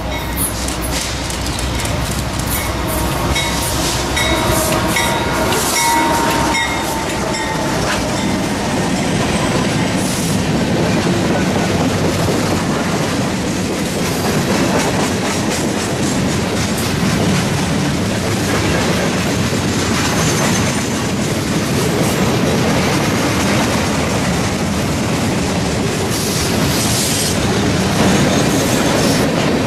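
A CSX freight train passing close by: the diesel locomotive comes up and goes by in the first few seconds with a few thin squealing tones, then a long string of freight cars rolls past with a steady clicking of wheels over rail joints.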